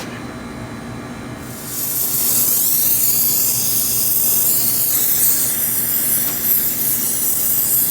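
Acetylene brazing torch burning with a steady loud hiss, which starts up about two seconds in.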